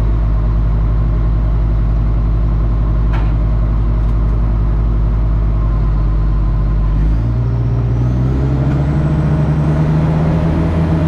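Heavy-equipment diesel engine running steadily, then picking up speed about seven seconds in, its pitch climbing for a few seconds.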